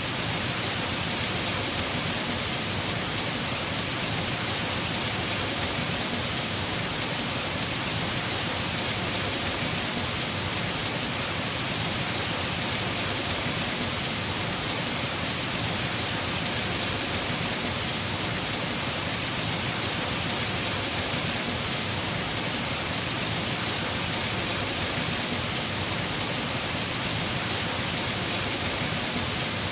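Heavy rain falling steadily on a house roof, a dense even hiss with no breaks.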